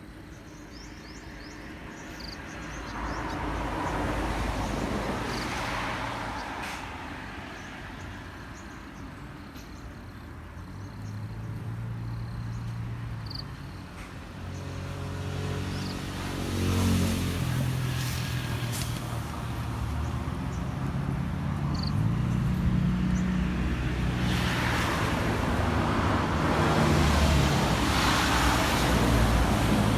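Road traffic: several vehicles pass one after another, their engine and tyre noise swelling and fading away, with the loudest and longest pass in the last several seconds.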